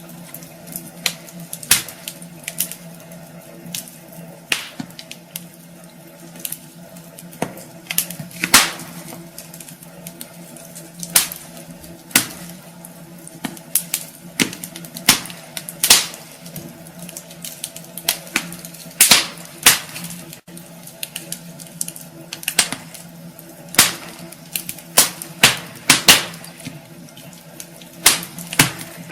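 Wood fire burning in a fireplace, crackling with irregular sharp pops and snaps over a steady hiss, with a faint low hum beneath.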